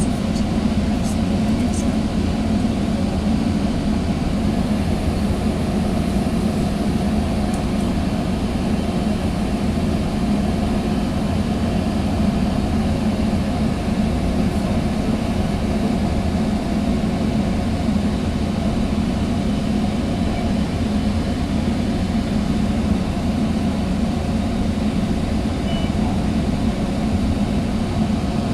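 Steady low rumble inside a Sound Transit Sounder commuter train coach, with a few light clicks near the start.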